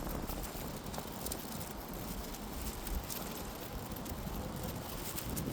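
Outdoor ambience: wind rumbling on the microphone over a steady background hiss, with a few faint clicks.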